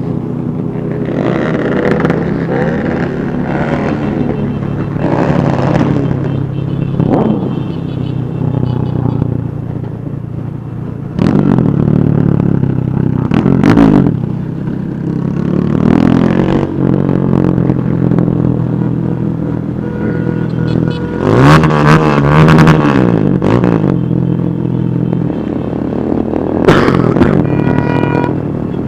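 Motorcycle engines running in a large group ride, with several revs rising and falling, the loudest in the middle and again near the end.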